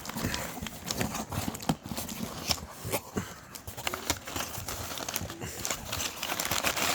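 A cardboard shipping box being opened and handled: irregular knocks and taps of the cardboard, with rustling of packing material.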